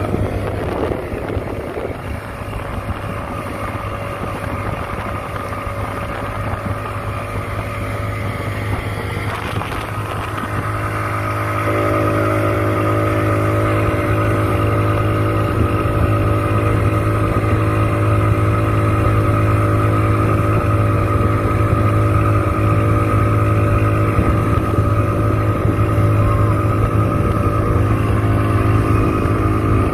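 Motorboat engine running steadily while towing a banana boat, heard from on board; about twelve seconds in the throttle opens and it runs louder and higher from then on.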